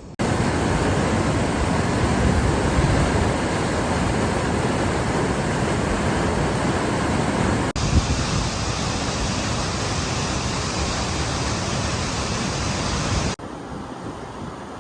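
Water rushing out of the Caledon Tunnel outlet into the Ash River: a loud, steady rush of water. It breaks off briefly about eight seconds in and drops away sharply near the end.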